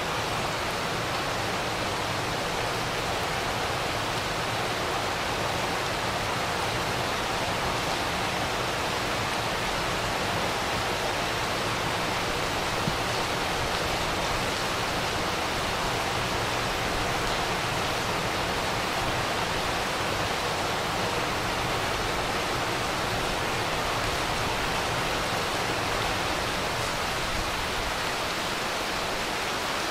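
Heavy rain falling steadily, an even hiss with no change, and a single faint click about halfway through.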